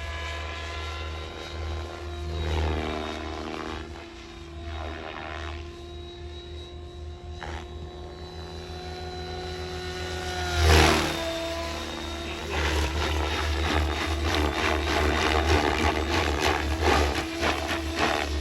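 SAB Goblin 570 electric RC helicopter in flight: the whine of its rotors and motor rises and falls in pitch as it manoeuvres. It is loudest about eleven seconds in, with a sharp drop in pitch as it passes close.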